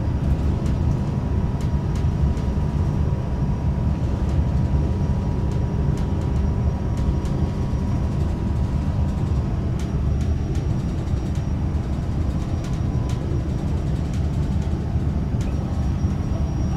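Frecciarossa 1000 high-speed train running, heard from inside the carriage: a steady low rumble with a faint high whine and scattered light clicks.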